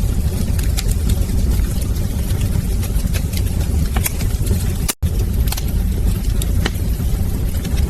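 Wood fire burning in a fireplace: a steady low rumble of flame with scattered sharp crackles and pops. The sound cuts out for an instant about five seconds in.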